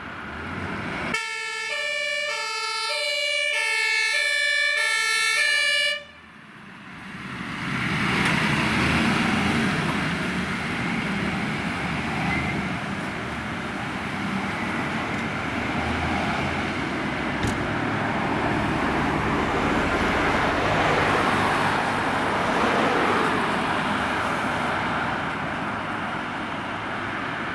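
Fire engine's two-tone siren sounding, alternating high and low notes for about five seconds before cutting off abruptly. Then a long stretch of steady vehicle and road noise.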